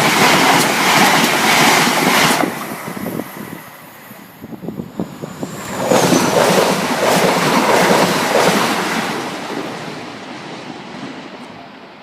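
A train passing at a level crossing: a rushing noise with rapid wheel clicks over the rails. It is loud at first, drops away after about two and a half seconds, rises again around six seconds in, then fades away.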